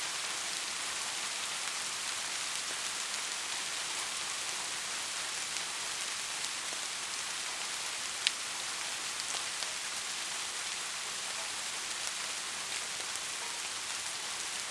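Steady rain, an even hiss with scattered close drops ticking. One louder drop strike about eight seconds in.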